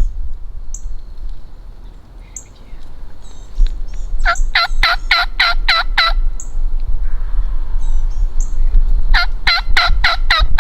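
Wild turkey tom gobbling twice: a rattling run of quick notes a few seconds in, then another near the end. Faint high chirps from small birds come in between.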